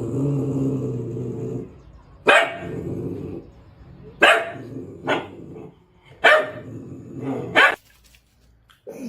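A dog growling, then barking five times with low growls between the barks.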